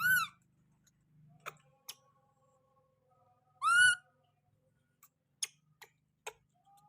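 Baby monkey giving two short, high-pitched calls that rise and fall, a few seconds apart, with a few faint clicks between them.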